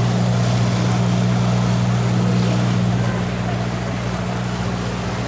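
Boat engine running steadily under way, a low drone with a hiss of wind and water over it; it gets slightly quieter about three seconds in.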